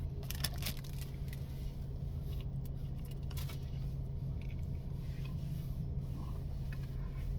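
Crinkling and rustling from handling a plastic snack-cake wrapper, in short bursts that cluster near the start and again a few seconds in, over a steady low hum.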